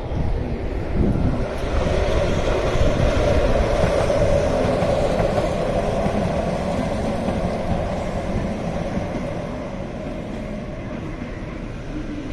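Electric train running on the rails, a steady rumble that grows to its loudest a few seconds in and then slowly dies away.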